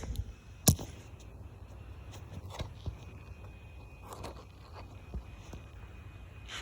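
Handling noise as a camera is set in place: one sharp knock about a second in, then faint ticks and rustling.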